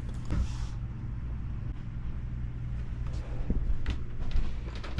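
A steady low mechanical hum with a few light clicks and knocks.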